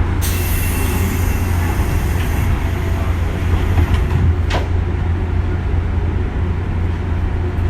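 JR West 201 series electric train running: a steady low drone and rumble of the wheels and motors, with a hiss during the first couple of seconds and a single sharp click about four and a half seconds in.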